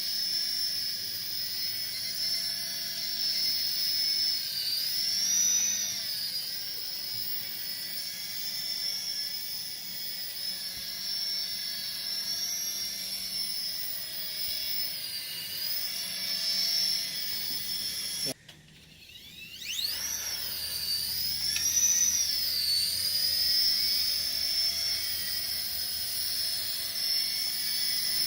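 Electric motors and rotors of a DeeRC SQN040 toy RC helicopter whining steadily in flight, the pitch swelling up and down a few times. About two-thirds through the sound cuts out suddenly and the whine rises back up as the rotors spin up again.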